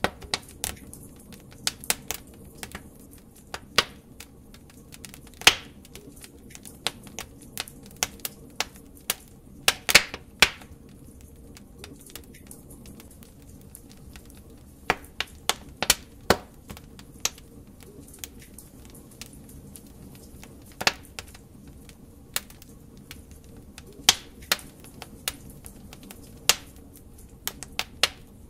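Wood fire crackling: irregular sharp pops and snaps of burning logs, some louder than others, over a low steady hiss.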